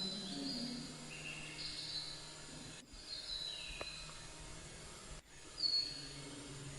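Outdoor ambience of insects trilling in steady high stretches that start and stop, over a low steady hum. The sound drops out abruptly twice.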